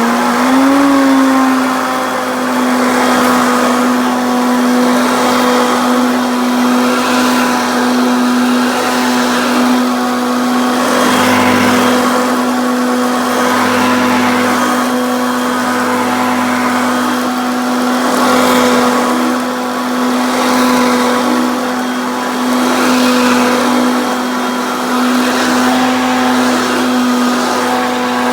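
Hoover Concept Two self-propelled upright vacuum cleaner running: the motor whine climbs in pitch in the first second after switch-on, then holds steady. Over it comes a swell of air and brush noise every couple of seconds as it is pushed back and forth in use.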